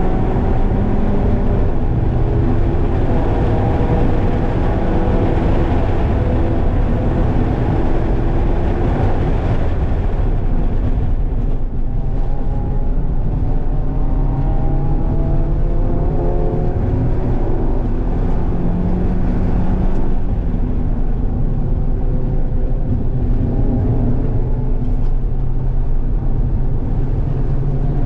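Mazda MX-5's four-cylinder engine heard from inside the cabin, revving up hard through the gears with its pitch climbing, then dropping back at each shift or lift for a corner, over steady tyre and wind noise.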